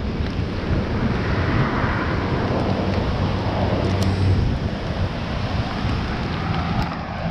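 Heavy rain and gusting storm wind buffeting the microphone in a steady rush, with the low steady hum of a car engine underneath.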